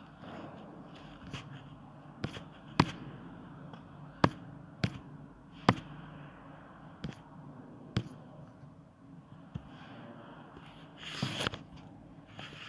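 Irregular sharp taps, about eight of them spread over several seconds, with a brief rustling scrape near the end.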